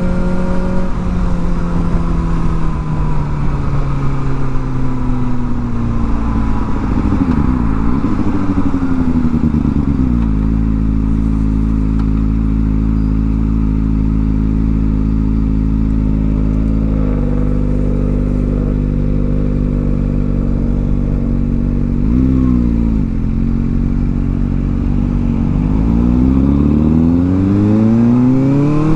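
Kawasaki ZX-4R's inline-four through its new exhaust: the engine note falls as the bike slows, settles into a steady idle for about fifteen seconds with one quick rev about two-thirds of the way through, then rises steadily as the bike pulls away near the end.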